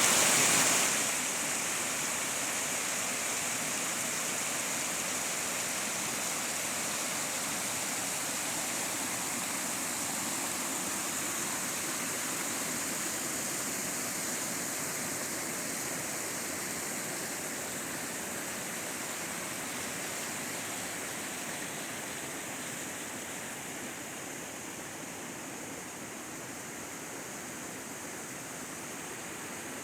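Waterfall on a small stream rushing steadily, a constant splashing roar that grows gradually a little quieter over the last several seconds.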